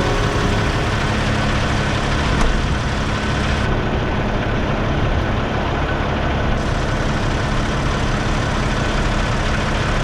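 Semi truck's diesel engine running steadily, with a low hum and road noise.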